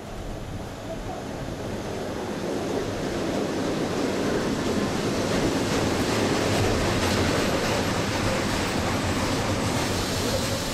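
EN57 electric multiple unit pulling into a station platform, its running and wheel noise growing louder over the first few seconds as it comes alongside and passes close.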